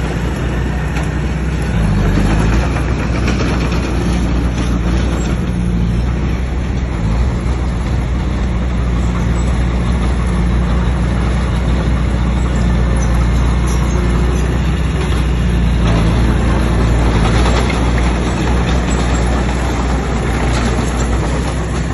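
Bulldozer's diesel engine running steadily under load, its note shifting about two seconds in and again near the end, over a constant rumbling noise.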